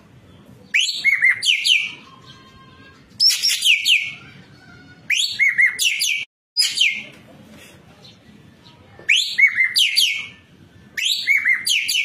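Ekek keling singing in energetic bursts: about six phrases, each roughly a second of quick, sharp, downward-slurred whistled notes, repeating every couple of seconds.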